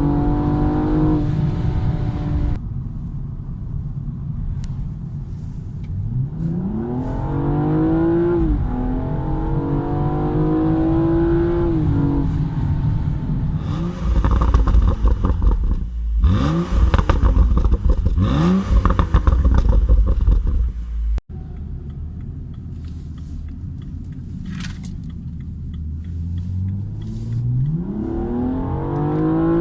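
BMW M235i's turbocharged straight-six accelerating through the gears: the engine pitch climbs and drops back at each shift, in several pulls. In the middle comes a louder spell of short, sharp rises in pitch over a heavy low rumble, which cuts off abruptly a little past two-thirds through, and the engine pulls up again near the end.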